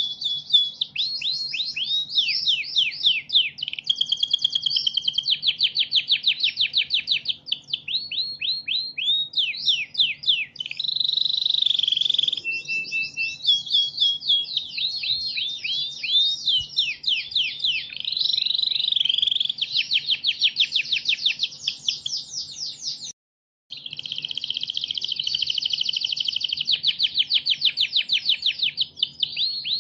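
Domestic canary singing a long, continuous song of fast rolling trills and quick repeated sweeps. The song cuts out completely for a split second about 23 seconds in, then carries on.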